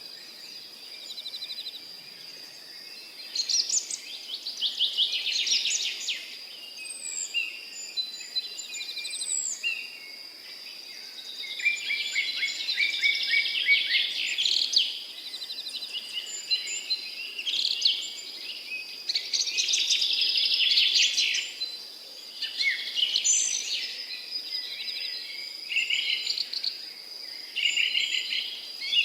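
Several songbirds singing and calling at once in a dawn chorus, with phrases and chirps overlapping and swelling in spells. Under them runs a steady high-pitched whine.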